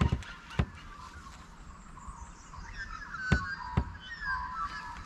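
Birds chirping and calling in short, sliding notes from about two seconds in, with a few sharp knocks, two at the start and two more past the middle, that are the loudest sounds.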